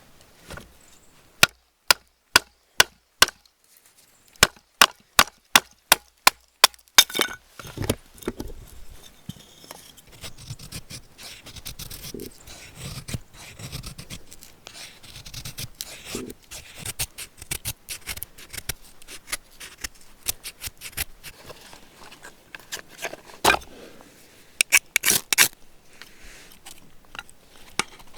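A run of about fifteen sharp knocks, two to three a second with a short pause, followed by softer irregular scraping and tapping.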